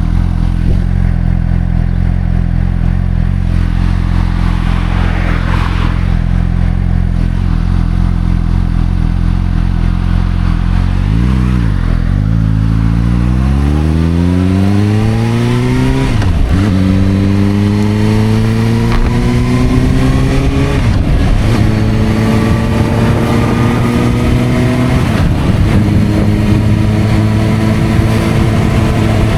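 Suzuki GSR600's inline-four engine through a Dominator aftermarket exhaust, holding steady low revs, then pulling away about 12 s in and accelerating through the gears. The pitch climbs and drops back at each of three upshifts roughly 4 to 5 s apart, then holds steady near the end.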